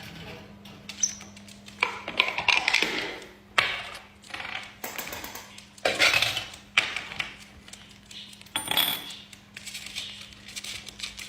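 Pet parrots' clicks, taps and scratchy rustles, with a couple of brief high squeaks, over a faint steady hum.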